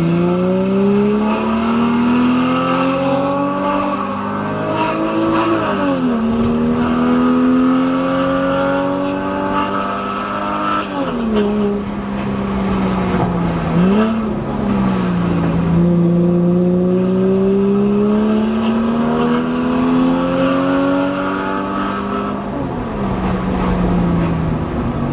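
Porsche 996 Carrera 4S's 3.6-litre flat-six through a Kreissieg F1-sound valvetronic exhaust, driven on the street. The engine note climbs steadily under throttle, then falls sharply at each gear change, about four times.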